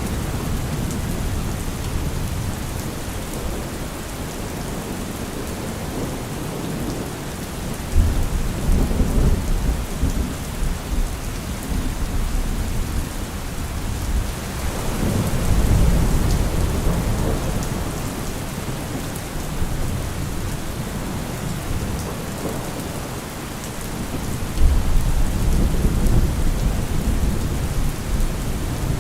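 Heavy rain falling steadily, a dense even hiss. Deep low rumbling swells rise under it about 8 seconds in, again around 15 seconds and near the end.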